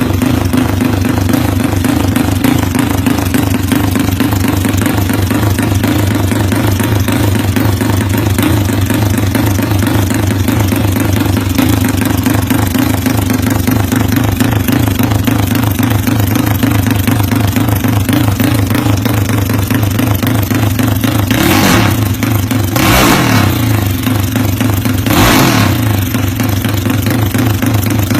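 Tuned Yamaha Mio scooter engine running steadily with a fast, choppy exhaust pulse, set up Thai-style for a helicopter-like sound. Three brief louder bursts come near the end.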